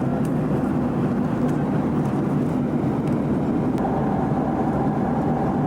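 Boeing 757 jet engines and rushing air heard inside the passenger cabin as a steady, even roar, with a steady whine coming in about four seconds in.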